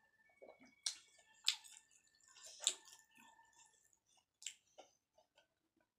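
Close-miked chewing with the mouth closed, broken by four sharp wet mouth clicks and smacks, the loudest two in the middle.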